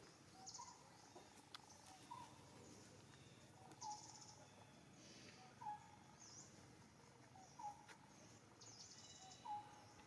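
Faint bird call: a short, falling note repeated about every two seconds, over outdoor forest ambience with brief high-pitched buzzes.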